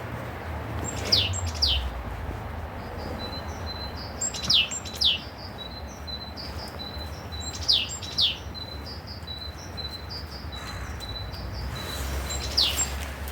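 Wild birds calling: one gives pairs of sharp, downward-sweeping high notes, the pair repeated four times at intervals of about three to four seconds, while another keeps up a quick run of short high notes on one pitch. A steady low rumble runs underneath.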